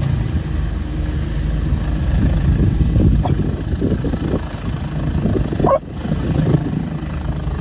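Helicopter running: a steady, loud, low engine and rotor rumble.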